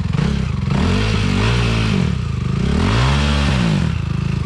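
Motorcycle engine revved hard three times, each rev rising and falling, then dropping back to idle near the end. The rear tyre is not getting traction, which the onlooker puts down to too much air in the tyre.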